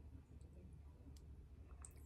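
Near silence with a low hum and a few faint clicks, one about a second in and another near the end.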